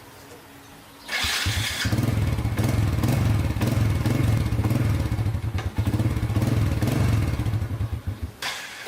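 An old motorbike's engine starts about a second in, runs for about seven seconds and then stops near the end.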